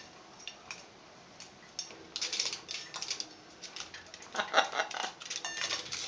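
Blue-and-gold macaw's beak clicking and scraping: a run of sharp, irregular clicks that thickens about two seconds in and is loudest a little past the middle.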